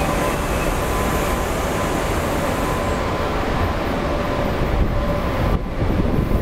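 Passenger train coaches rolling along the platform and slowing to a stop: a steady rumble and hiss from the wheels with a thin steady whine through it. The high hiss fades and drops away near the end as the train halts.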